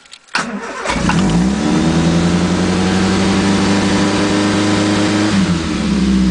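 The 1980 Triumph Spitfire 1500's four-cylinder engine, freezing cold, cranks briefly and catches about a second in. It settles into a steady fast idle of about 2,500 to 3,000 rpm, normal for a freezing cold motor, and dips briefly near the end.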